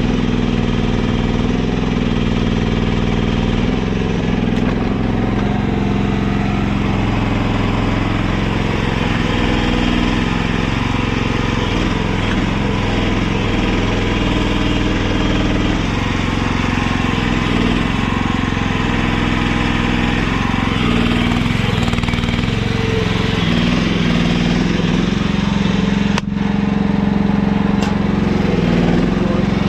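Mini excavator engine running steadily under work, its pitch dipping and rising as the hydraulics take load while digging a trench, with a brief break near the end.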